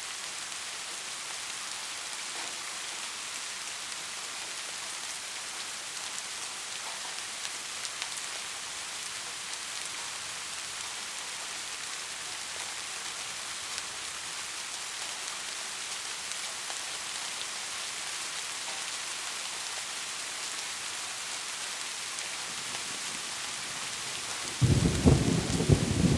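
Steady rain hissing, then a loud thunderclap breaking in near the end as a sudden deep, rolling rumble.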